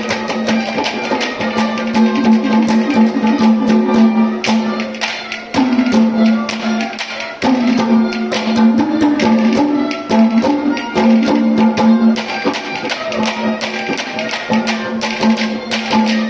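Instrumental accompaniment of a Haryanvi ragni: a steady held low note under fast, dense hand-drum percussion.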